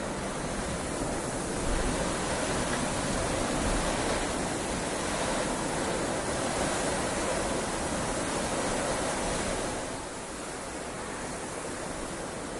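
Heavy rain falling steadily, a dense even hiss that grows louder about two seconds in and eases back near the end.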